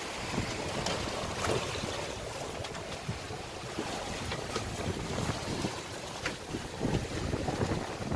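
Wind buffeting the microphone and sea water washing against a sailboat's hull at sea, with a few faint clicks spread through.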